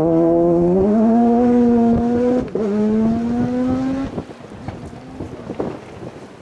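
Off-road rally car's engine pulling hard, its note climbing steadily, with a quick upshift about two and a half seconds in before it climbs again; the driver lifts off about four seconds in and the sound falls away.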